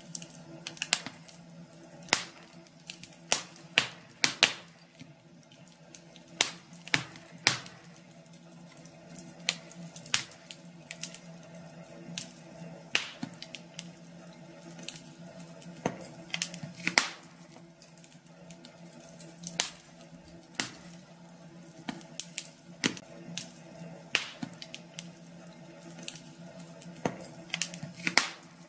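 Wood fire crackling in a fireplace: irregular sharp pops and snaps, a few every second and some much louder than others, over a steady low hum.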